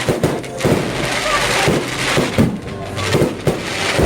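Fireworks going off: a rapid string of bangs and crackling pops, several a second.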